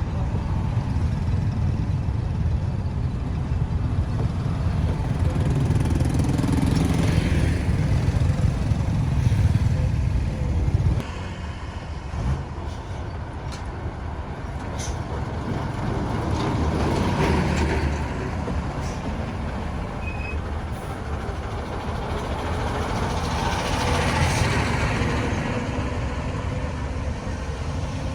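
Road traffic: a steady rumble of engines and tyres that swells as vehicles pass, several times over; the rumble drops suddenly about eleven seconds in.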